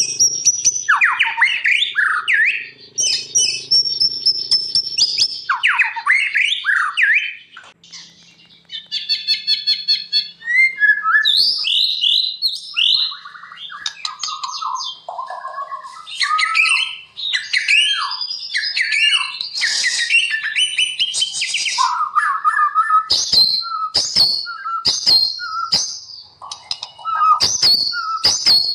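White-rumped shama singing a long, varied song of whistled slurs and glides with a fast rattling trill partway through. Over the last few seconds the song breaks into a string of sharp clicks between short notes.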